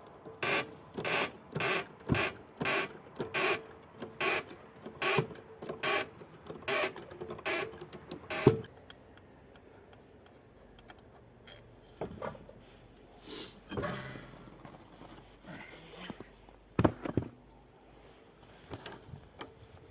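Front suspension of a classic VAZ car squeaking in a steady rhythm, about a dozen squeaks roughly two-thirds of a second apart, then stopping. After that come a few scattered knocks. The owner traced this squeak to a worn lower ball joint.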